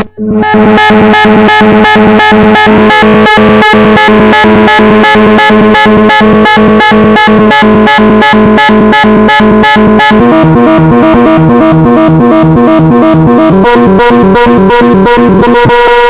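Make Noise 0-Coast analog synthesizer playing a fast arpeggio of rapidly repeated notes, sequenced by the Cthulhu arpeggiator plugin, loud. After a brief dropout at the very start the pattern runs on, and lower notes join about ten seconds in.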